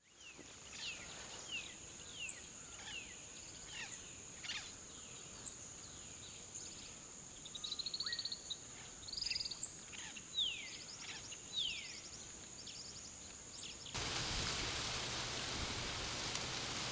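Birds calling over a steady high insect drone: repeated downward-sliding notes, with a short rattle about eight seconds in. About fourteen seconds in, this cuts off abruptly and a steady rushing noise takes over.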